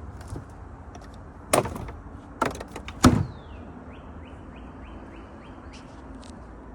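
Three sharp knocks about a second apart, the loudest sounds, followed by a bird calling: one falling note, then a quick run of about seven short, evenly spaced high notes.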